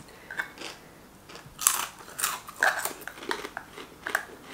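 A person chewing and biting crunchy food, with several short, sharp crunches in the second half.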